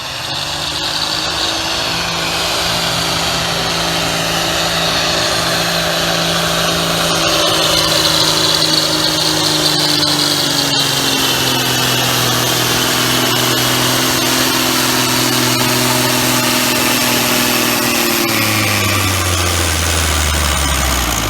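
Heavily modified pulling tractor engine at full throttle under the weight-transfer sled. Its pitch sinks steadily as the load builds, then drops sharply near the end as the engine is lugged down toward a stall, the throttle held wide open to the finish.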